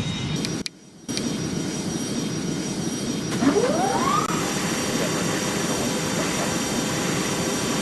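Jet engines of an Airbus A310 running with a steady rush. The sound cuts out briefly about a second in, and a rising tone sweeps upward around the middle.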